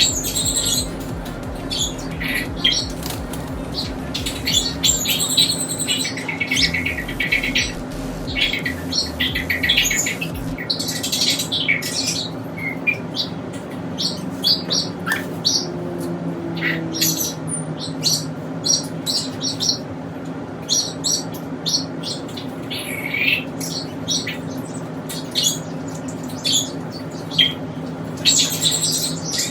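Small pet parrots chirping and squawking in many short, sharp calls, over a steady low hum.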